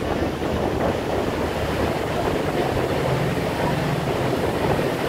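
Tour boat's engine running steadily with a low drone, under an even rushing noise.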